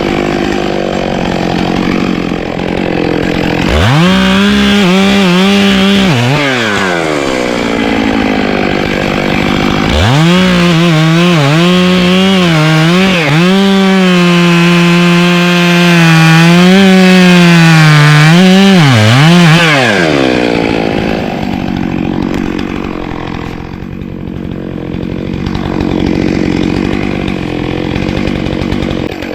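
Gas chainsaw idling, then revved hard into wood twice: a short burst about four seconds in and a long cut of about ten seconds starting about ten seconds in, its pitch wavering and dipping under load. It drops back to a lower steady run near the end.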